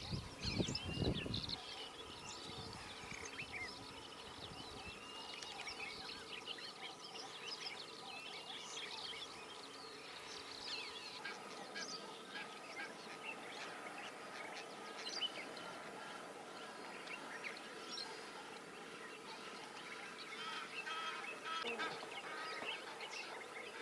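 A chorus of marsh birds calling: many short, overlapping chirps and whistles that go on throughout. Low rumbles are heard in the first second or so.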